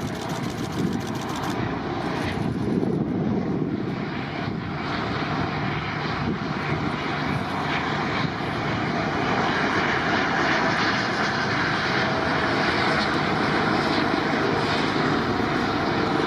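Airliner engines running steadily, the noise growing louder about halfway through as the aircraft draws nearer.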